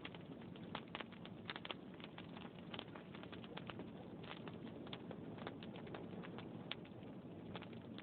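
Log fire burning in a fireplace: frequent irregular crackles and pops over a steady low noise from the flames.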